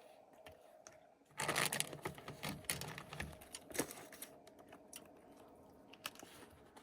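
Close-up eating noises: a short run of crunching and clicking starting about a second and a half in, thinning to scattered clicks, as mussels are chewed and their shells handled.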